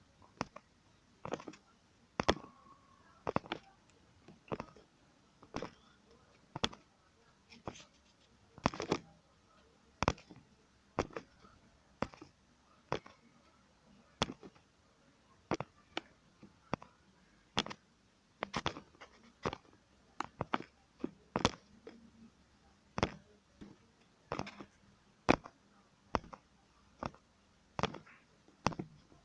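Plastic LEGO bricks being handled and snapped together: a long run of sharp separate clicks and knocks, roughly one a second, sometimes two in quick succession.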